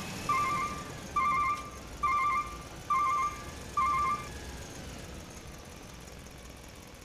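Toy truck's reversing alarm beeping: five electronic warbling beeps just under a second apart, stopping about four seconds in, the signal that the truck is backing up to unload.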